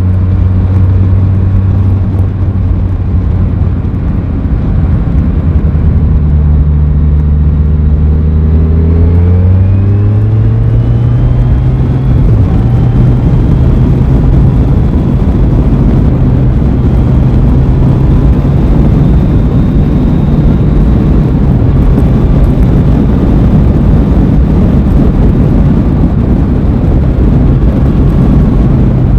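Aprilia Tuono 660's parallel-twin engine under way: running at lower revs, then rising in pitch as it accelerates about ten seconds in, and holding a steady higher note with a rushing noise behind it for the rest of the time.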